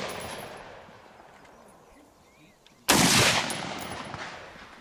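A single loud gunshot about three seconds in, with a long ringing tail of echo that slowly fades. At the start, the echo of an earlier shot is still dying away.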